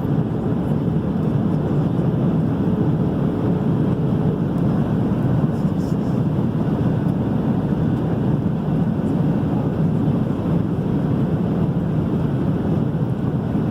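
Steady engine and airflow noise heard inside an airliner cabin, an even rumbling hiss that holds level throughout. A faint steady hum sits under it and fades out about four seconds in.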